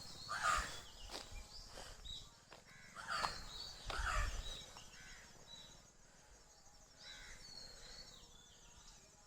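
Birds calling in woodland: a series of short calls every second or two, each dropping in pitch, over a faint steady insect buzz.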